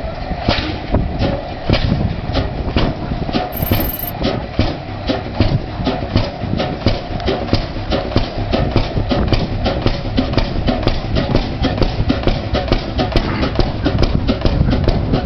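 An engine running with a regular, evenly spaced beat of firing strokes, picking up slightly in speed as it goes.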